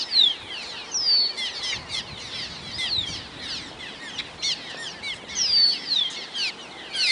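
A flock of birds calling without a break, many short, sharp, falling chirps overlapping one another.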